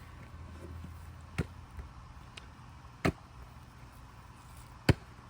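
Three sharp knocks, about a second and a half to two seconds apart, the last one the loudest.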